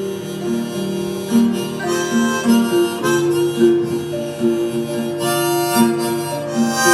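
Harmonica playing a melodic solo of held, changing notes over a strummed acoustic guitar, in the instrumental break of a folk love song.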